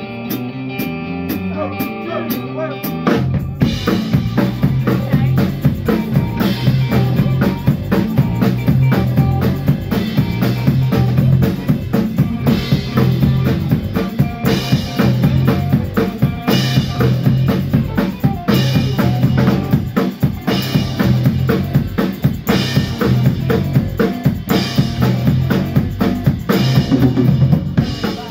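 Band music: a guitar figure over a light ticking beat, then the full drum kit and bass come in about three seconds in and play a steady beat under the guitar.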